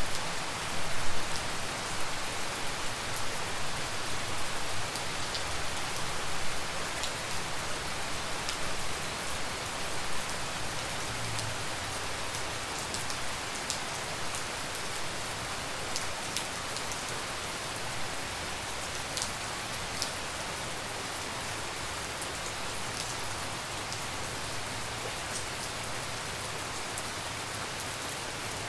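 Steady tropical rain falling, with scattered close drops ticking sharply on nearby surfaces. It comes in uneven louder gusts for the first ten seconds or so, then settles to an even downpour.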